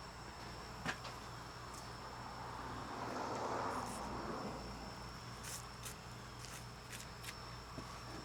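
Knife work and the stiff hide of a cooler-chilled deer being pulled off the carcass, with a rasping swell about three seconds in and a few faint clicks. A steady high thin tone runs underneath.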